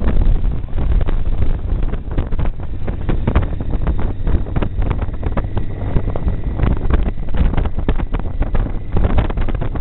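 Wind buffeting the microphone on a moving motorcycle, over the low rumble of its engine and road noise.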